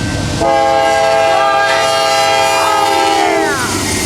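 Norfolk Southern freight locomotive's air horn sounding one long, loud multi-note chord, dropping in pitch as it cuts off near the end, over the low rumble of the approaching train.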